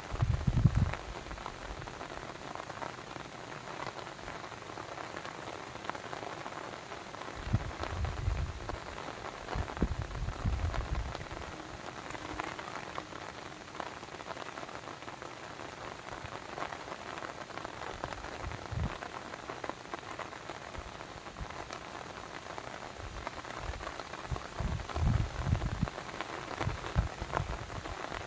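Steady rain falling, a continuous hiss of many small drops, with a few brief low rumbles that come and go.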